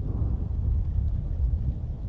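Thunderstorm: a continuous low rumble of thunder and wind, rising and falling, with faint rain.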